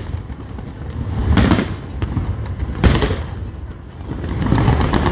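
Aerial fireworks shells bursting: two sharp bangs about a second and a half apart, then a longer spell of rumbling bursts near the end.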